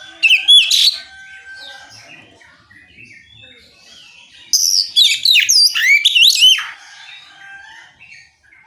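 Oriental magpie-robin (kacer) singing loud, clear whistled phrases in the open 'ngeplong' style, with quick rising and falling notes: a short burst near the start and a longer run from about halfway. Softer chirps from other birds fill the gaps.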